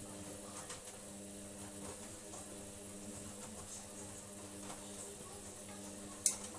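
Washing machine running with a steady motor hum. A single sharp click near the end.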